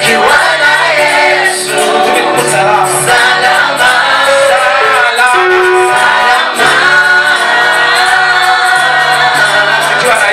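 A choir singing gospel praise music, loud and continuous.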